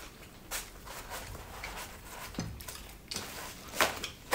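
People eating by hand at close range: chewing and mouth clicks, with a few short sharp clicks scattered through and the loudest two near the end.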